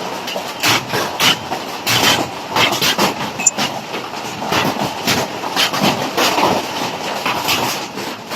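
Large hailstones striking hard surfaces: a dense, irregular clatter of sharp impacts, several a second, over a steady rushing noise of the storm.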